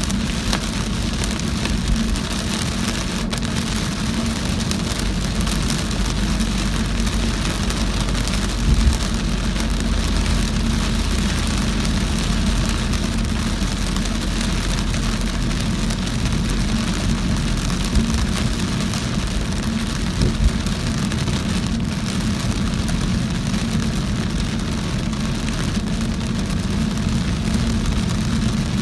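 Heavy rain falling on a moving car, a steady wash of rain and wet-road noise over a low engine and road rumble. A few brief knocks stand out, about a third of the way in and twice near two-thirds.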